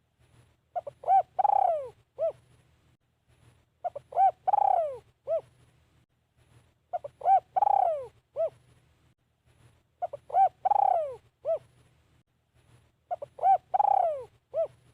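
Spotted dove cooing, repeating the same phrase five times, about every three seconds: a couple of short coos, a long coo falling in pitch, and a short closing note.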